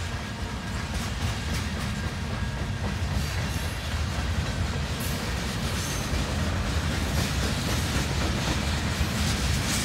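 Freight train cars rolling past: a steady rumble of steel wheels on the rails with scattered clicks and clacks, growing slightly louder toward the end.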